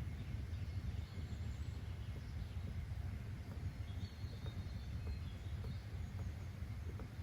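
Ambient nature soundscape: a steady low rumble with faint, brief bird chirps now and then.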